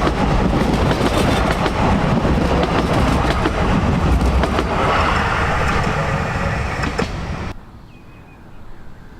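Narrow-gauge train running along the track, its wheels clattering over the rail joints with a dense run of clicks. The sound cuts off suddenly about seven and a half seconds in, leaving a much quieter background.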